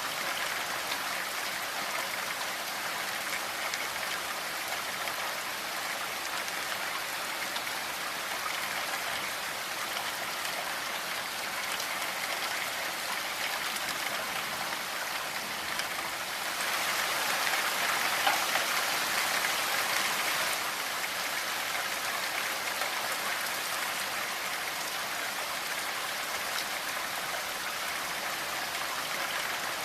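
Steady rainfall, an even hiss of drops, swelling a little louder for a few seconds just past the middle.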